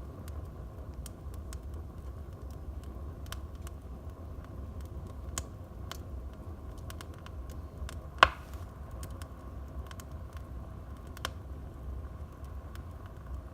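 Wood fire burning in a fireplace: scattered quick crackles, with one loud sharp pop about eight seconds in, over a low steady rumble.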